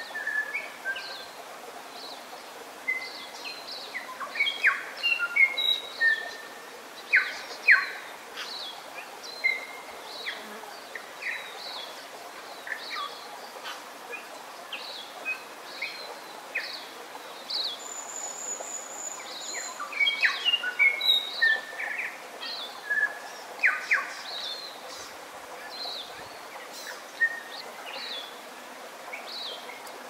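Forest birds singing and calling: a busy mix of short whistles, chirps and sliding notes from several birds over a steady soft background hiss, with a brief buzzy high note near the middle.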